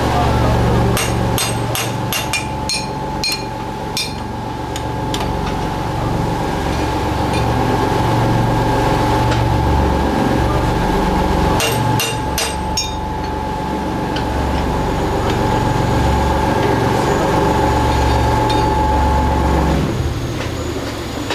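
Factory machinery running with a steady hum and a low drone, broken by two quick runs of sharp metallic knocks and clinks, about a second in and again near the middle. The hum cuts off near the end.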